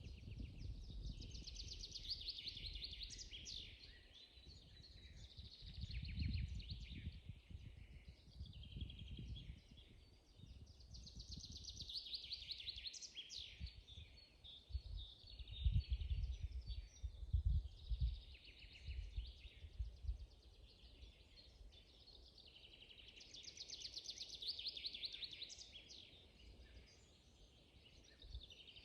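Songbirds singing in a spring forest, with long trilled song phrases recurring every several seconds. An irregular low rumble runs underneath, loudest about halfway through.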